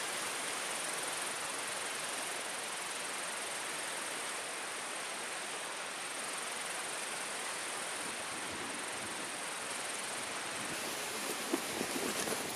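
Steady outdoor forest ambience: an even hiss with a constant high insect drone. A few light knocks come near the end.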